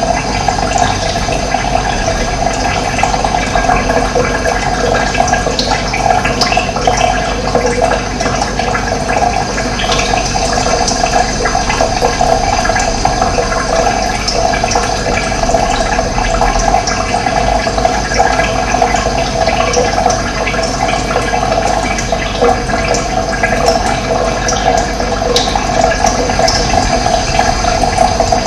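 Running water flowing steadily with a constant rushing sound.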